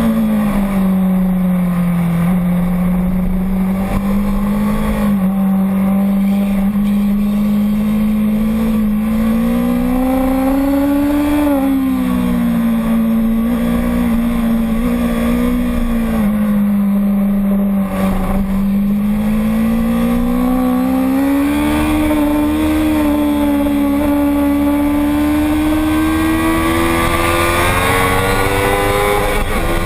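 Motorcycle engine running hard without a break, its pitch falling and rising slowly several times with throttle and gear changes, and climbing near the end.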